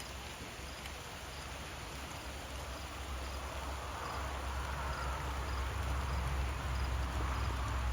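Distant thunder, a low rumble that builds over the last few seconds, with insects chirping faintly in a steady rhythm.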